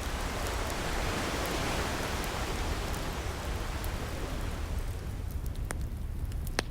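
An ocean wave washing in, its hiss swelling and then fading away over about five seconds. A steady low rumble runs under it, and a wood fire crackles with a few sharp pops, the loudest near the end.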